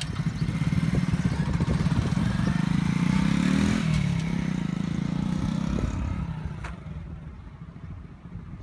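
Kuba RX9 50 cc motorcycle engine running as the bike is ridden past; the engine note climbs to its loudest about four seconds in, then drops in pitch and fades away.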